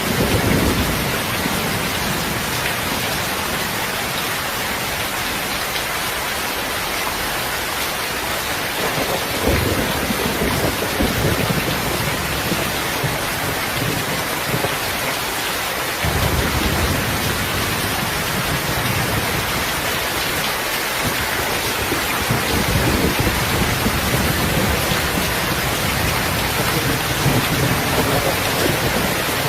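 Steady rain hissing, with low rolls of thunder rumbling in and out: near the start, around ten seconds in, and again from about sixteen seconds on.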